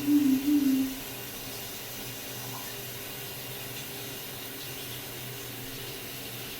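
Water running steadily from a tap, an even rushing sound, with a brief wavering pitched tone in the first second.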